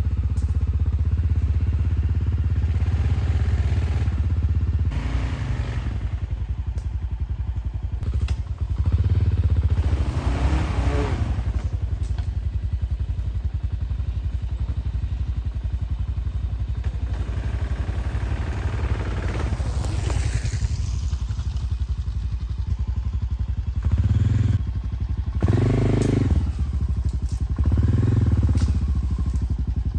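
Dual-sport motorcycle engine running, the revs rising several times, including three short bursts near the end.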